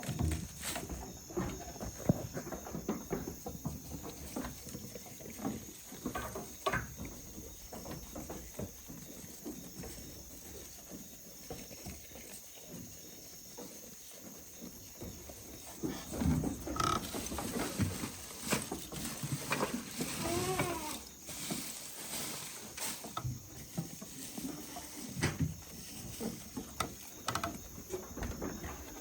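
Goats bleating, with one clear bleat about two-thirds of the way through, amid scattered knocks and rustles.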